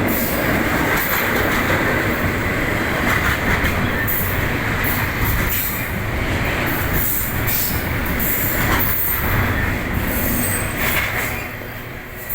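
Train cars rolling past on the rails, wheels clattering with squeals now and then. The sound drops off near the end.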